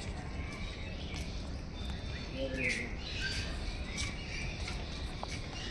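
Several birds chirping in short, scattered high notes, with one short, lower call about two and a half seconds in, over a steady low background noise.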